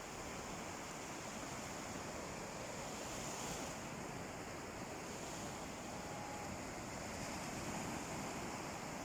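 Sea waves washing onto a beach: a steady surf hiss that swells gently twice.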